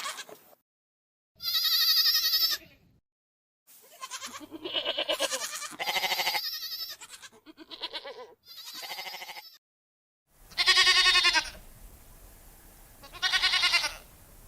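Goats bleating: a string of wavering, quavering calls, one about 2 s in, a run of several overlapping ones from about 4 to 9 s, and two more single bleats near 11 and 13 s, separated by short spells of dead silence.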